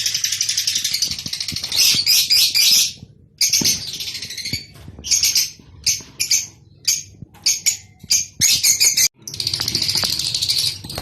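Lovebirds chattering and chirping, the high-pitched breeding chatter used to stimulate lovebirds to mate: a steady stream at first, breaking into many short bursts in the middle, then a steady stream again near the end.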